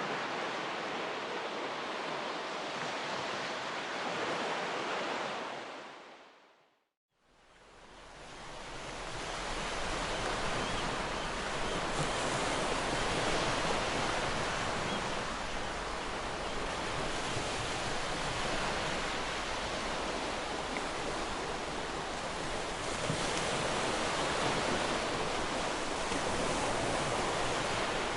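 Ocean surf washing onto a beach, a steady hiss of breaking waves that swells and eases. About six seconds in it fades out to silence and then fades back in.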